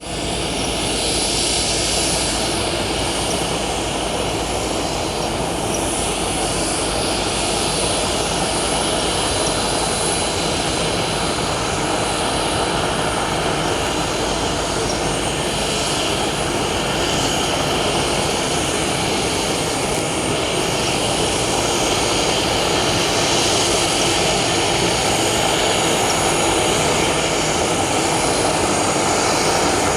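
Boeing 737-400's CFM56 jet engines running with a steady, even noise that grows a little louder after about twenty seconds.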